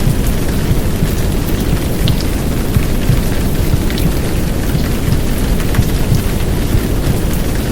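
Heavy downpour rain with a steady, deep muffled rumble of womb sound (heartbeat and white noise) underneath, scattered with small drop ticks.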